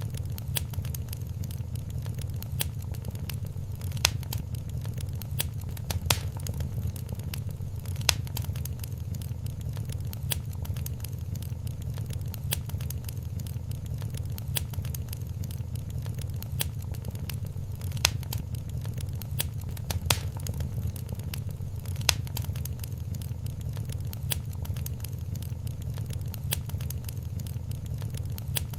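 Wood fire in a fireplace crackling steadily over a low rumble of the flames, with sharper, louder pops every couple of seconds.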